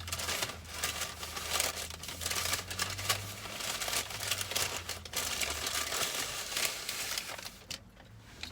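Paper fast-food packaging crinkling and rustling as it is handled, a dense run of crackles that dies away shortly before the end. A low steady hum runs underneath.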